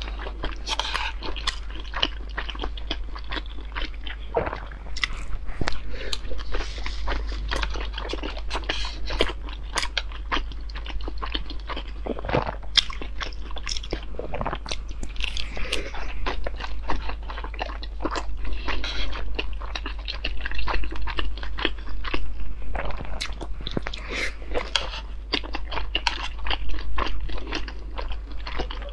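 A person biting into and chewing pan-fried dumplings close to a clip-on microphone: many quick, irregular wet mouth clicks and crunches. A steady low hum runs underneath.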